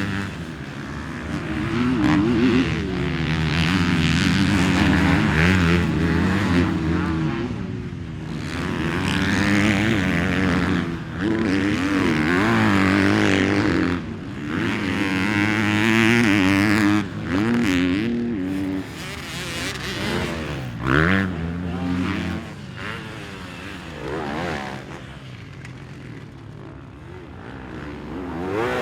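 Motocross dirt bike engines revving hard and dropping off, rising and falling in pitch through the gears, growing louder and fading again several times as the bikes ride the track.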